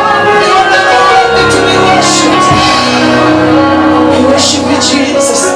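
Live church worship music between sung lines: sustained held chords over a bass line, with short bright strokes on top.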